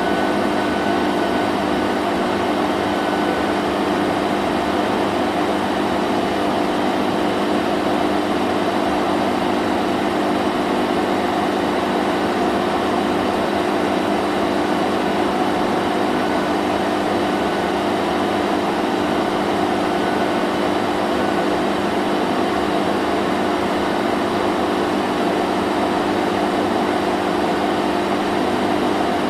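Vacuum cleaner motor running steadily: a constant whirring hum with a hiss of rushing air, unchanging throughout.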